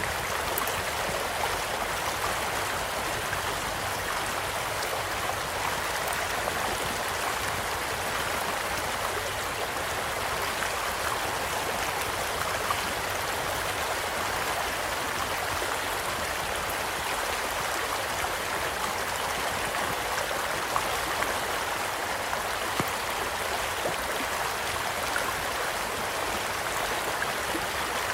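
Small stream flowing steadily, with scattered sharp pops and crackles from a wood campfire close by.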